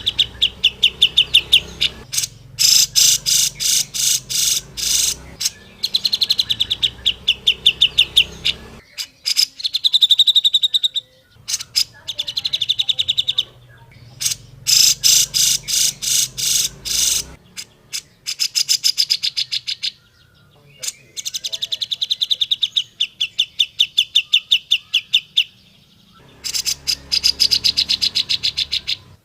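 Grey-cheeked bulbul (cucak jenggot) giving fast, chattering calls in repeated bursts of a couple of seconds each, with short pauses between.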